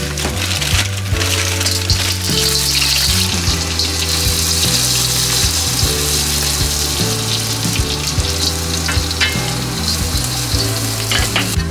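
Chopped shallots sizzling as they fry in hot oil in a wok while being stirred with a slotted spatula. The sizzle is loudest a couple of seconds in. Background music plays under it.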